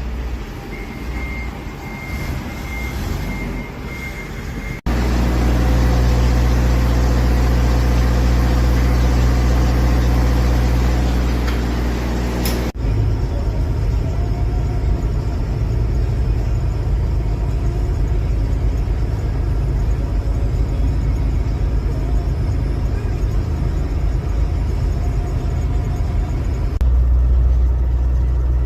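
Motor vehicle engine running with a steady low drone, which changes abruptly about five seconds in and again about thirteen seconds in. A faint steady high tone is heard in the first few seconds.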